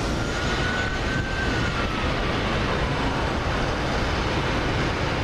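CSX double-stack container train rolling past, a steady rumble and rush of wheels on rail. A faint thin squeal rises slightly and then fades away over the first few seconds.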